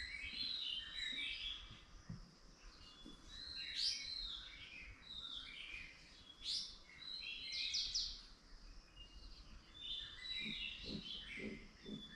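Several songbirds chirping and singing over one another in quick, overlapping phrases. Near the end a lower, rapidly repeated call from another animal joins in.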